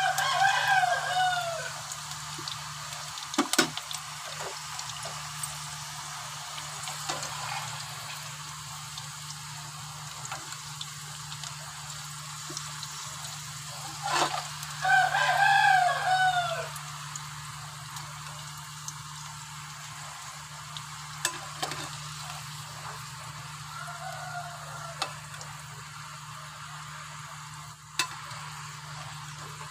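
Small onions frying in hot oil in a kadhai: a steady sizzle, with sharp metal clinks now and then as a slotted steel spoon scrapes and scoops in the pan. Twice, at the start and about halfway, a loud drawn-out call falling in pitch stands out above the frying.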